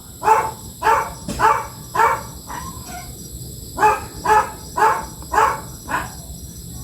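A dog barking repeatedly, about two barks a second, in two runs of about five barks with a short pause in between.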